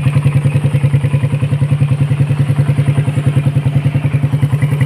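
First-generation Suzuki Raider motorcycle engine idling steadily with an even, fast pulse, freshly refreshed and shimmed.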